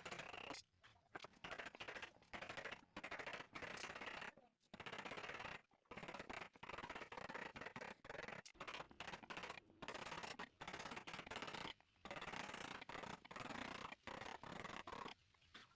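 Repeated rasping, scraping strokes of a hand tool working wood, irregular and a fraction of a second to about a second each, with short pauses between them.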